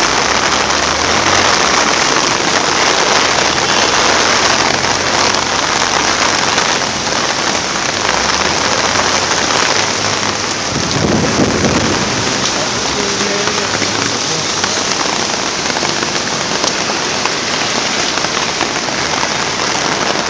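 Heavy typhoon rain pouring and water rushing, a dense steady hiss. A low rumble swells briefly about halfway through.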